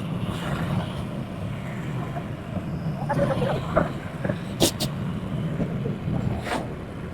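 Honda Pridor 100cc motorcycle's single-cylinder four-stroke engine running steadily while riding, with a couple of sharp clicks a little past the middle and another near the end.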